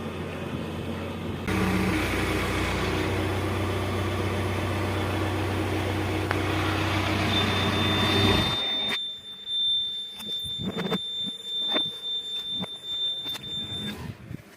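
A heavy machine's engine running steadily, growing louder about a second and a half in, then cutting off abruptly after about eight and a half seconds. A steady high-pitched tone starts shortly before the cut-off and carries on for several seconds after it, among scattered knocks and clicks.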